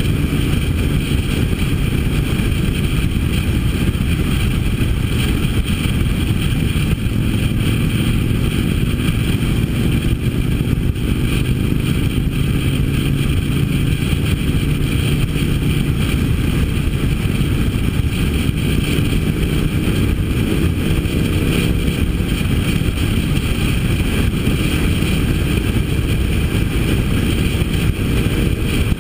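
Harley-Davidson V-twin motorcycle engine running steadily at cruising speed, heard from the moving bike, with wind noise on the microphone.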